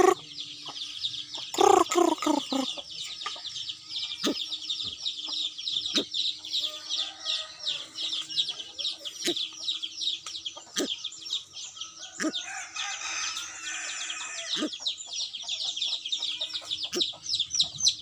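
Birds calling: a dense run of rapid high chirps throughout, with a louder, lower call about two seconds in.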